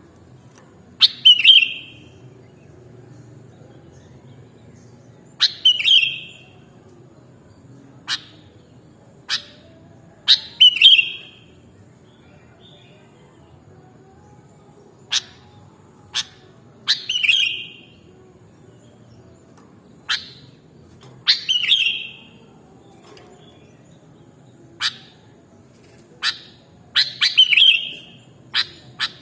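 Sooty-headed bulbul (kutilang) calling: short, sharp chirping phrases repeated every few seconds, with single sharp clicks in between.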